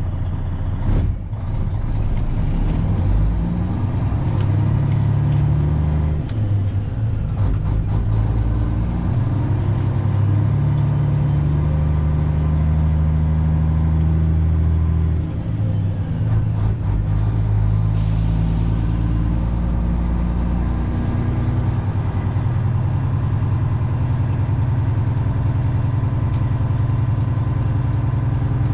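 Semi truck's Detroit Diesel 12.7 engine running under load, its note changing in steps as it shifts through the gears. A short hiss of air comes about two-thirds of the way through.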